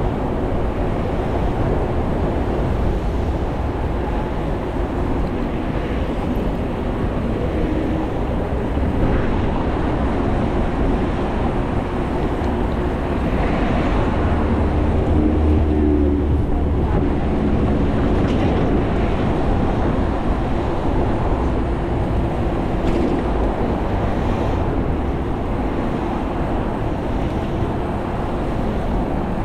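Steady loud rumble of city traffic and wind, heard from a moving bicycle, with faint vehicle engine hums coming and going.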